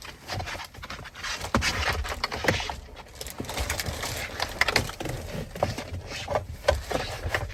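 Rustling and irregular clicks and taps from handling and fitting plastic car interior accessories.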